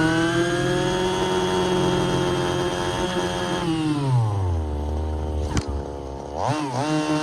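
Small two-stroke gas engine of a Redcat RC car held at high revs for a few seconds, then falling to idle, giving one quick blip of throttle and revving back up near the end, with a sharp click while it idles.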